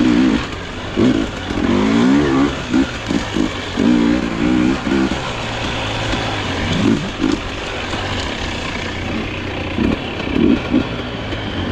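Dirt bike engine running while ridden on a trail, the throttle opened and closed in short repeated bursts so the pitch rises and falls over a steady low running note.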